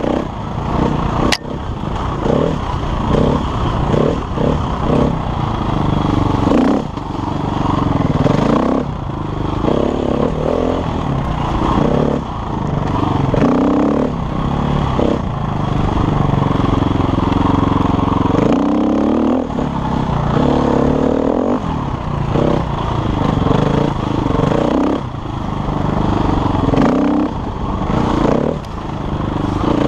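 KTM enduro motorcycle engine, revving up and down over and over, its pitch rising and falling every second or two. A sharp click comes about a second in.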